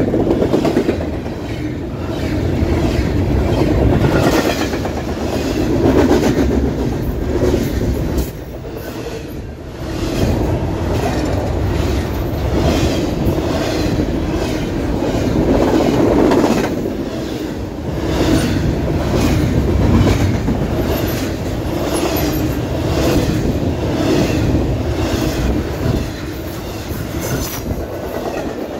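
Freight train of double-stack container well cars rolling past, wheels clacking over the rail joints in a steady repeating rhythm over a continuous low rumble.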